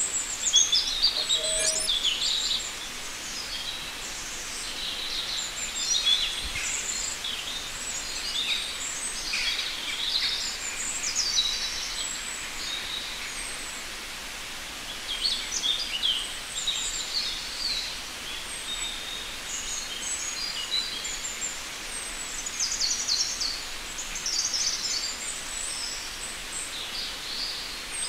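Birds chirping and twittering: many short, high calls in quick succession, coming and going in clusters over a faint steady hiss.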